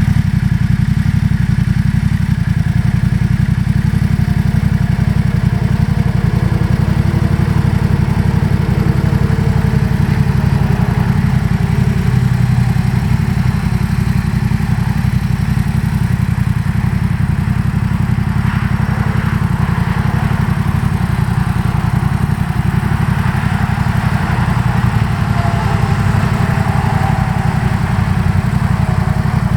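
2018 Yamaha MT-07's 689 cc parallel-twin engine idling steadily through a Yoshimura full exhaust with the street baffle installed.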